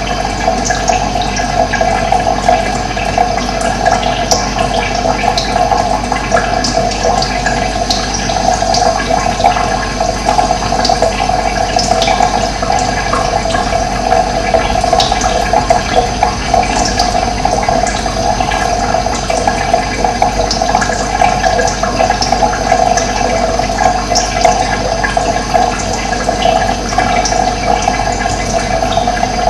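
Running water rushing steadily, with short high-pitched sounds scattered through it.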